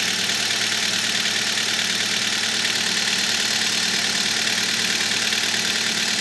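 Kia Rio 3 engine idling steadily with its accessory drive belt running quietly: the belt has stopped squealing after being sprayed with belt conditioner.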